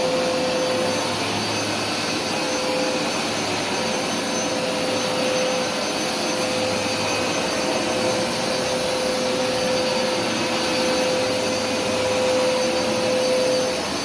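Hoover SmartWash carpet washer running steadily, its suction motor giving a constant roar with a steady whine on top.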